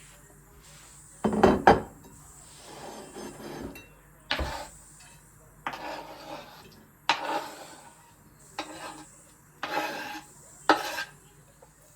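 Dishes and utensils being handled in a kitchen: a series of irregular knocks, clinks and scrapes, the loudest pair about a second in.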